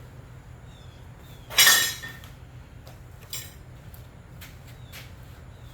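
Metal tools and parts being handled: a loud clank with a short ring about one and a half seconds in, a smaller clank a little after three seconds, then a few light clicks.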